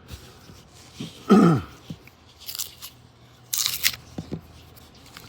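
Coins and their paper roll wrapper being handled, with brief crinkling, clicking bursts. About a second and a half in, one short, loud call falls in pitch.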